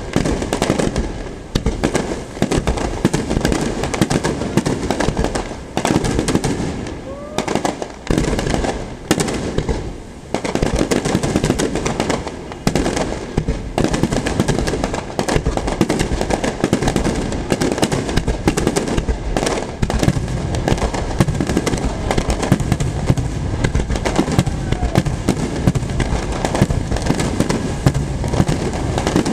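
Aerial firework shells bursting in a rapid, near-continuous barrage of bangs and crackle, with brief lulls about seven and ten seconds in.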